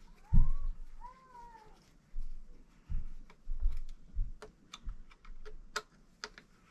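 A cat meowing twice near the start, each call rising and falling in pitch. After that come a few low knocks and a run of small sharp clicks.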